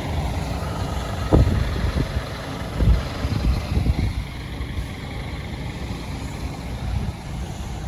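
Scania R480 truck's six-cylinder diesel engine running with a low rumble, with a couple of short thumps in the first three seconds.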